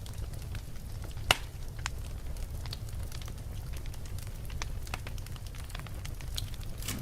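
Wood fire burning in a fireplace: a steady low rumble of flames with scattered crackles and one sharp pop about a second in.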